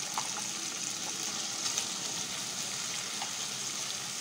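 Marinated chicken pieces sizzling in hot oil and butter in a non-stick pan: a steady frying hiss with a few faint pops.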